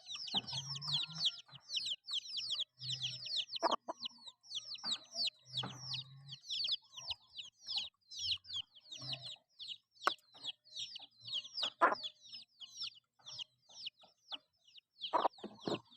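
Chickens foraging: low, short clucks among a constant stream of high, falling peeps, several a second. A few sharp knocks fall in between.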